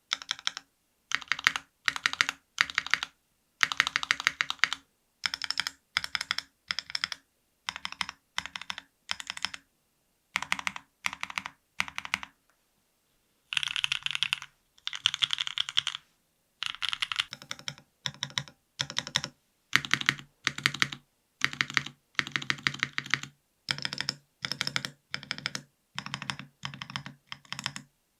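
Stabilized long keys (spacebar, shift, enter, backspace) on a NEO70 aluminium custom keyboard with a carbon plate, no foam and lubed Gateron Milkshake linear switches, pressed in short bursts of repeated clacks with brief pauses between. About two-thirds of the way through, the clacks turn deeper.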